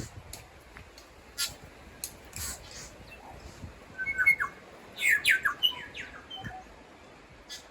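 Birdsong: scattered short, sharp chirps, then from about four seconds in a quick run of clear whistled notes and steep falling glides, the loudest part.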